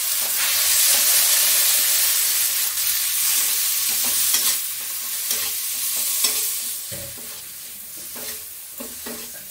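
Chopped tomatoes sizzling in hot oil and masala in a kadhai while a metal spatula stirs them, with a few knocks of the spatula against the pan. The sizzle is loudest in the first half and dies down toward the end.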